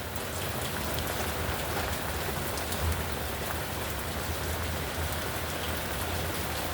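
Torrential rain pouring down in a thunderstorm, a steady dense hiss of drops with a low rumble underneath.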